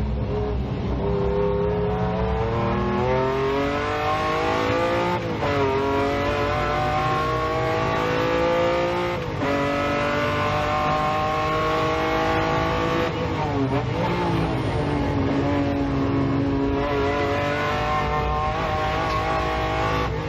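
Lamborghini Diablo's V12 engine accelerating through the gears: the pitch climbs for about four seconds, drops sharply at an upshift, and this repeats three times before a slower climb near the end.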